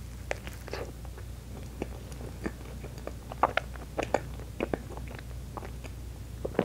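Close-miked biting and chewing of a honey pot Baumkuchen, a small sponge cake filled with cream and honey. There are many short, wet mouth clicks, the sharpest coming in the middle and near the end.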